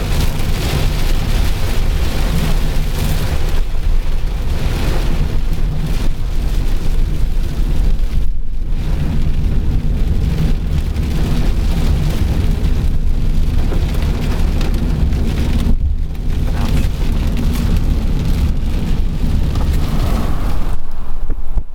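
Heavy rain beating on a moving car in a thunderstorm, over the steady low rumble of the car and its tyres on the wet road.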